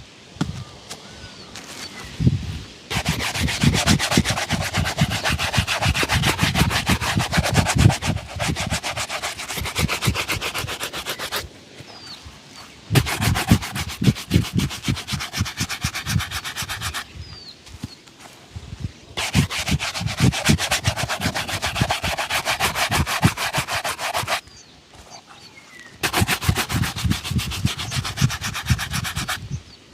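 A leather shoe being buffed in rapid back-and-forth strokes, in four bouts of several seconds each with short pauses between.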